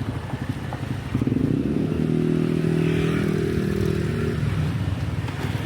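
Motorcycle engine passing close by, loudest for about three seconds in the middle, over street traffic noise.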